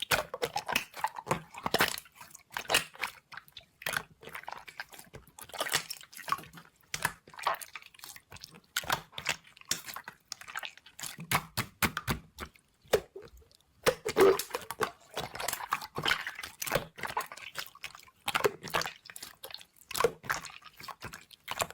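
Clear slime being squished and pressed by hand, making a dense run of wet, sticky clicks and small pops.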